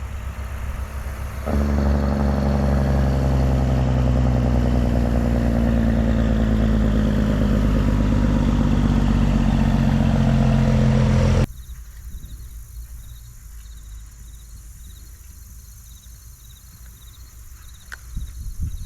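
A dump truck's engine running loud and steady for about ten seconds, then cutting off abruptly, leaving insects chirping in a regular pattern.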